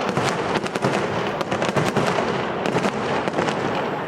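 Fireworks going off: a dense, continuous crackle of many sharp pops and bangs in quick succession.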